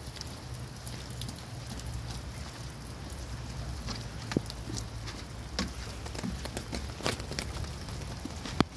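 Rain falling steadily, with scattered sharp taps and clicks, the loudest one near the end.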